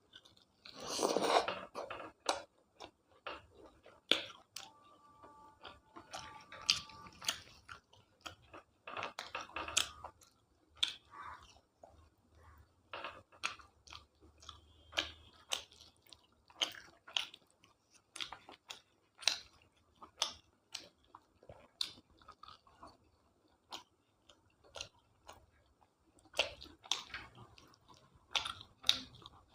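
A person eating close to the microphone: irregular wet chewing with mouth clicks and smacks, and a few louder bites.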